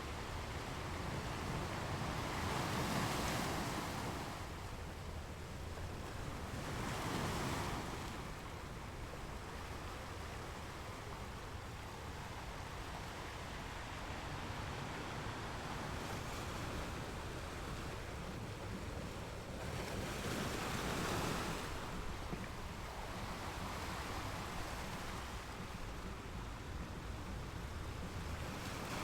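Ocean surf: a steady rush of waves with a few louder surges as waves wash in.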